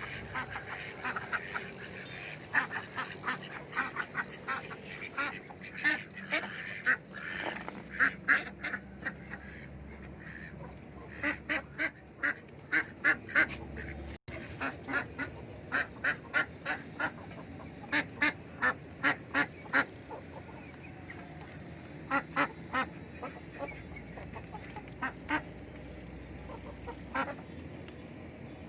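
Domestic ducks quacking in quick runs of short calls, several a second, with pauses between the runs.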